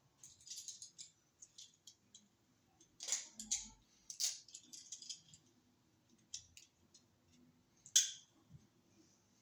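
Handling noise of a wall receptacle being fitted: a string of small clicks, scrapes and rustles as the stiff wires are folded into the electrical box and the receptacle is pushed into place, with a sharp click about eight seconds in.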